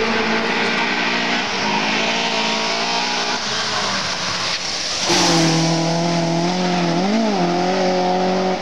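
Rally car engine running hard on a gravel stage, getting much louder about five seconds in as the car comes close, with a quick drop and rise in revs near the end.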